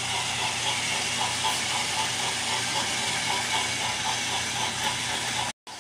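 Battery-powered toy trains running on their track: a steady whir of small motors and gears with a light, regular ticking. The sound cuts out abruptly for a moment near the end.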